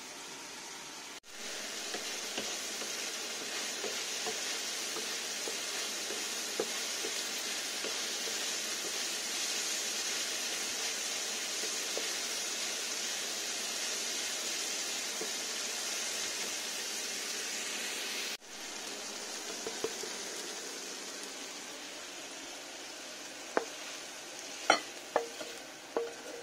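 Diced leeks, bacon and potatoes sizzling steadily in a frying pan, with light taps and scrapes of a wooden spatula stirring them. The sizzle is softer over the last third. Near the end come a few sharp clinks and knocks as the pan is tipped and the food slides into a glass bowl.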